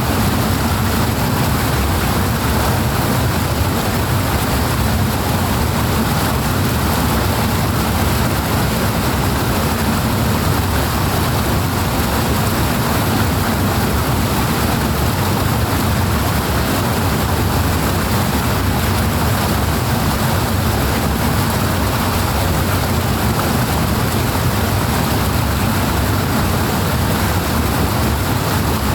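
Rushing water, a loud, steady, unbroken rush with a deep rumble underneath.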